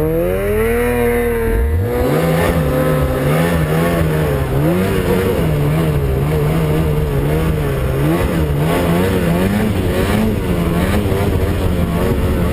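Snowmobile engine revving up sharply in the first second or two, then held at high revs, its pitch wavering up and down as the throttle is worked.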